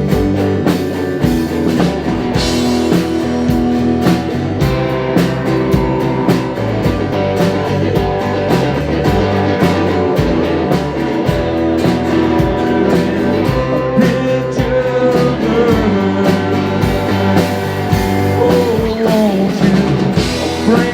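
Live rock band playing an instrumental break: guitar over bass and drum kit, with a steady beat and some bending lead notes in the second half.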